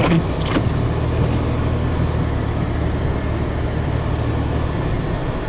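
Car engine and drivetrain running at a steady low hum, heard from inside the cabin while driving through deep snow; the hum eases off near the end, with a couple of light clicks at the start.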